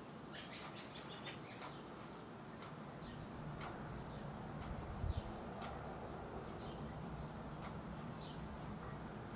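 Songbirds chirping: a quick run of short high chirps, then a brief call repeated about every two seconds. A low thump sounds about halfway through.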